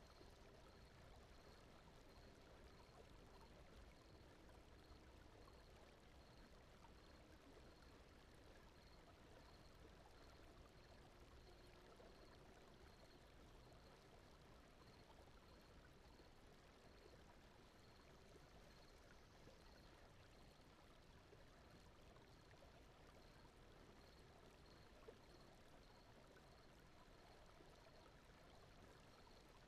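Very faint, steady rushing noise, the brown-noise and flowing-water bed of a sleep track. A faint, high, short pulse repeats evenly about once a second.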